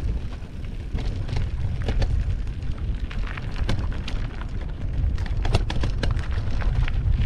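Mountain bike riding over a rough trail of loose rocks: a steady low rumble of the ride buffeting the camera microphone, with many sharp clicks and rattles of the tyres and bike on the stones.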